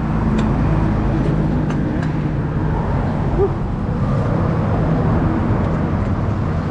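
Steady road-traffic noise with a low engine rumble running throughout.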